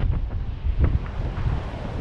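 Strong storm wind buffeting the camera's microphone in uneven gusts, with heavy surf from the sea behind it.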